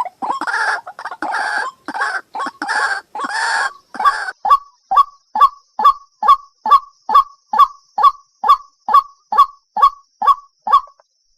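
White-breasted waterhen calling: about four seconds of rapid, harsh croaking notes, then a steady series of short, even-pitched notes about two a second, which stops shortly before the end.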